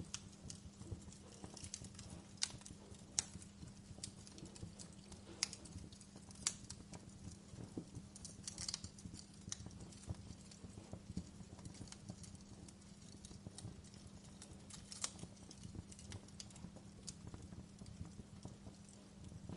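Campfire crackling: burning wood gives off irregular sharp pops and snaps, some louder than others, over a low steady background.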